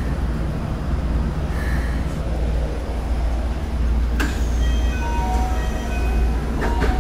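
Inside a Keikyu New 1000 series train with a Siemens GTO inverter, as it slows into a station: the low rumble of the running train, a sharp click about four seconds in, then a string of steady inverter tones that step down in pitch one after another.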